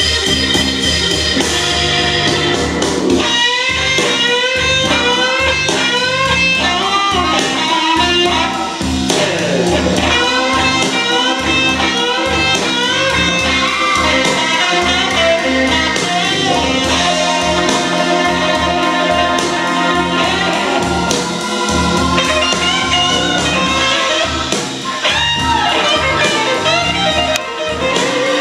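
Recorded music played back through home-built hi-fi loudspeakers: a steady beat with a bending lead melody line and no vocals.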